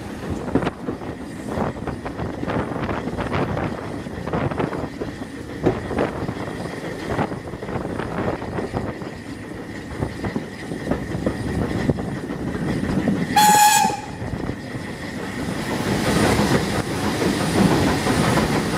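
Heritage steam train running on jointed track, heard from a coach window: wheels clicking and the coach rattling. About two-thirds of the way in, the locomotive gives one short whistle, and near the end the running noise grows louder as the train enters a brick tunnel.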